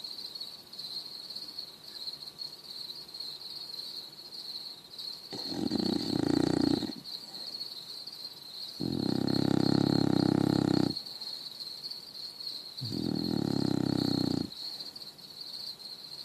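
Beagle snoring loudly in its sleep: after about five seconds of quiet, three long buzzy snores of one and a half to two seconds each come about two seconds apart, with another starting right at the end. A steady high-pitched tone runs underneath throughout.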